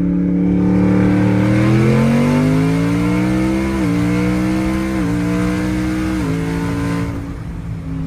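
Twin-turbocharged 5.0-litre V8 of a 2020 Ford F-150 at full-throttle acceleration, heard from inside the cab. Its pitch climbs, then steps down three times as the 10-speed automatic upshifts. A loud rushing hiss over the engine cuts off about seven seconds in.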